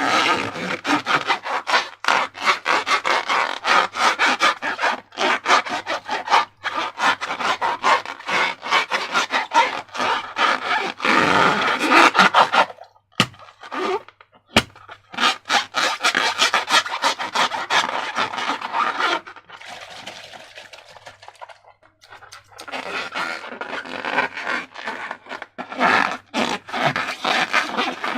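Slime being squished and worked: a dense run of rapid, sticky crackles and rubbing. It breaks off briefly about halfway through, with two sharp clicks in the gap, and goes quieter for a few seconds later on.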